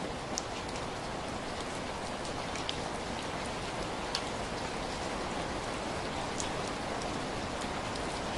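Heavy rain falling steadily, a dense even hiss with scattered sharper drop hits on a surface.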